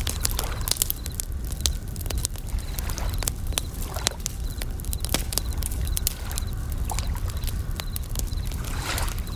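Campfire crackling with frequent sharp pops over a low rumble, while bell crickets chirp in short high trills and waves wash in softly now and then, one swell strongest near the end.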